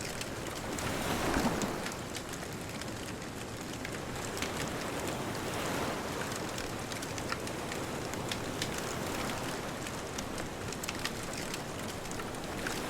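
Wood bonfire crackling with many scattered sharp pops over a steady hiss of distant ocean waves; the hiss swells briefly about a second in.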